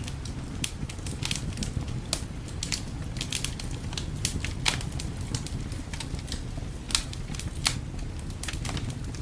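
Wood fire crackling in a fireplace: irregular small pops and snaps over a steady low rumble, with a few sharper snaps a little over halfway through.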